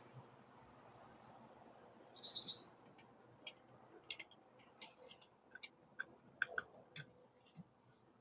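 Blue-crowned hanging parrots (serindit) calling: a quick, loud high trill about two seconds in, then a scatter of short, sharp high chirps.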